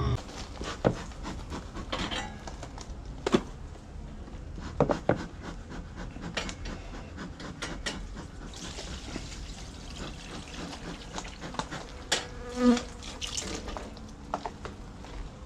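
Honeybees buzzing around an open hive, broken by scattered knocks and clicks as hive parts are handled, with a brief hiss near the middle.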